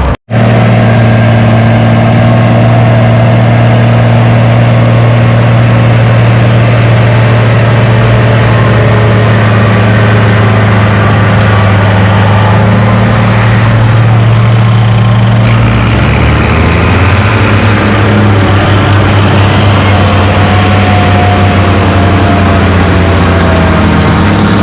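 Antique farm tractor engine running steadily under load while pulling the weight sled down the track, its pitch shifting about 16 seconds in.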